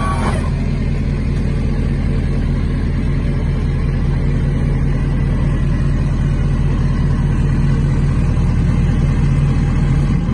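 Truck engine running steadily, a loud, even low drone that builds slightly near the end.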